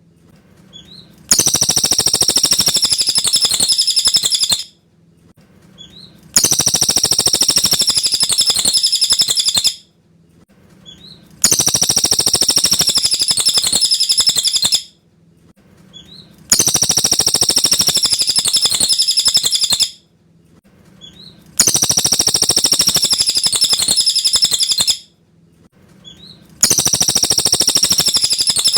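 Cililin song played in a loop: a burst of fast, high chirping and whistling about three seconds long, repeated about every five seconds with short pauses between.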